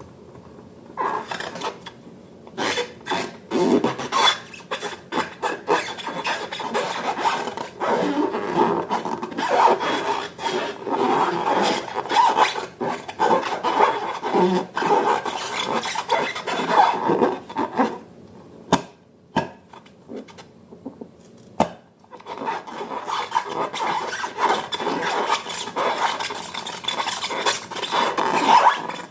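Slime being squished and worked, making dense, irregular wet crackling and clicking. It thins out for a few seconds past the middle to a few sharp clicks, then picks up again.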